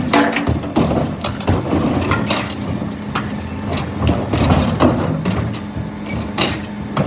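2017 Scania P320 refuse truck's engine running steadily, with repeated knocks and clanks from the truck's body and equipment.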